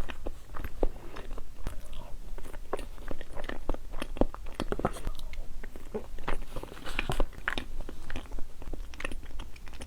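Close-miked chewing of boba tea's tapioca pearls: a dense run of short wet mouth clicks, several a second, with no pause.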